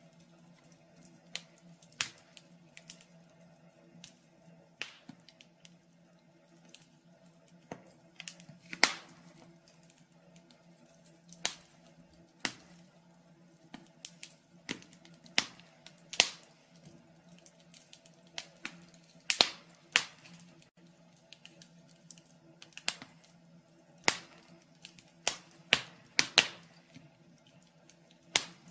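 Wood fire crackling in a fireplace: irregular sharp pops and snaps, several every few seconds, over a faint steady low hum.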